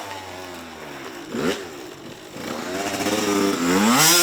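Small dirt bike engine ticking over low, blipped once briefly, then revved up with rising pitch toward the end as the rider tries a burnout.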